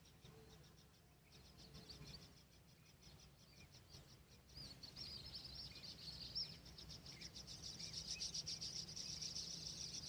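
Countryside ambience: a fast, steady insect trill with birds chirping over it, getting louder from about halfway through.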